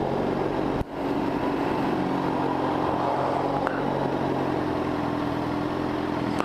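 Motorcycle engine running steadily, with a short drop in sound about a second in before it picks up again.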